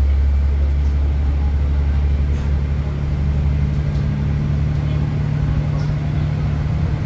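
Steady low drone of a diesel train's engine, its deepest hum thinning a little after about four seconds, with a few faint ticks over it.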